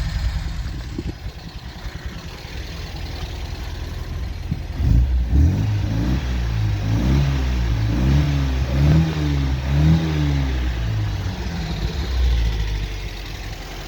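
MGB's 1.8-litre B-series four-cylinder engine idling, then revved up and down about five times from about five seconds in before settling back toward idle. It has just been brought back to life after sitting, and runs rich with the choke tied on.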